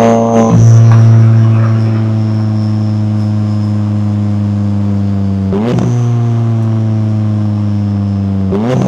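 McLaren 570S twin-turbo V8 running at a steady, even engine speed while driving, with a faint high whine above it. The engine note dips briefly and recovers just after the start, about two-thirds of the way through, and again near the end.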